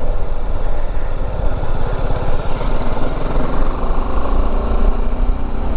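BMW G310GS's single-cylinder engine running steadily as the motorcycle is ridden along.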